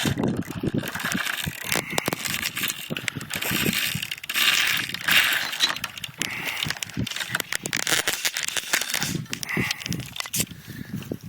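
Fishing reel being worked, with rapid clicking and rattling of the reel and gear.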